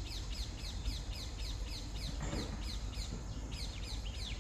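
A bird calling over and over: short high notes, each falling in pitch, repeated steadily about four times a second, over a low steady rumble of background noise.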